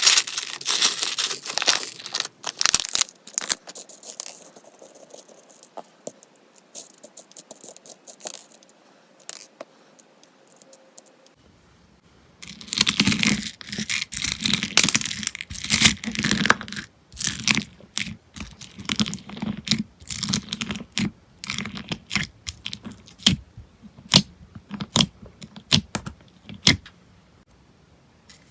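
Slime being squeezed, stretched and poked by hand, giving sticky crackles, pops and clicks. The sounds come thick at first, thin out, then turn dense and busy again about halfway through.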